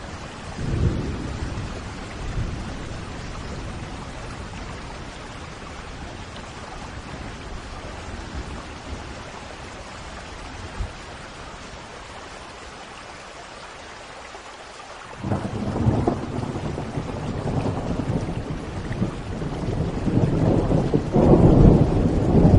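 Steady rain falling, with a low rumble of thunder about a second in. About fifteen seconds in, a loud roll of thunder starts suddenly and keeps building toward the end.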